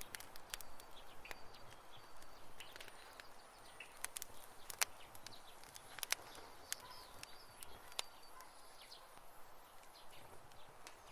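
Campfire crackling: wood burning with irregular sharp pops and snaps over a soft hiss, with a few faint high chirps in the background.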